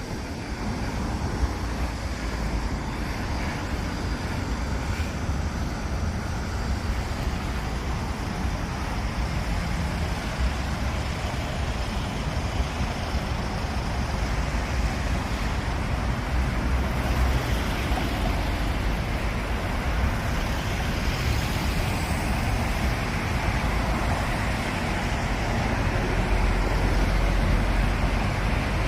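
Steady road traffic noise, a continuous rumble and hiss of passing vehicles that grows somewhat louder near the end.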